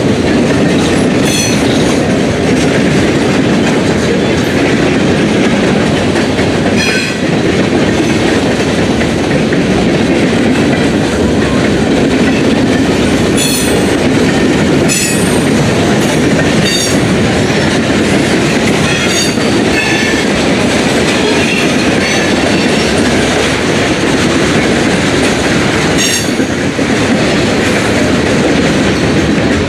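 Freight cars rolling past close by, their wheels clacking steadily over the rail joints, with several short sharp squeals or clanks from the wheels scattered through.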